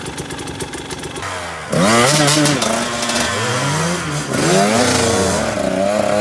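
Enduro motorcycle engine running quietly, then louder from a little under two seconds in, its revs rising and falling several times as the throttle is worked.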